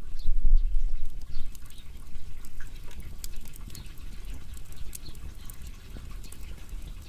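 Firewood burning, crackling with irregular sharp pops over a low rumble that is strongest in the first second and a half.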